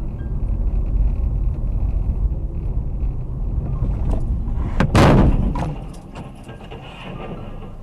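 Steady low road rumble of a moving vehicle, then about five seconds in a single loud, sudden crash of a collision, which rings out for about a second before the rumble drops to a quieter level.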